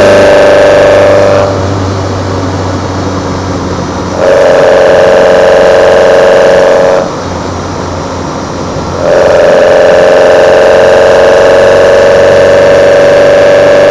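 Kadett GS 16v engine drawing air through twin Solex C40 ADDHE sidedraft carburetors under load, a loud intake note slowly rising in pitch. It drops away twice for two to three seconds each, about a second and a half in and again about seven seconds in, then comes back.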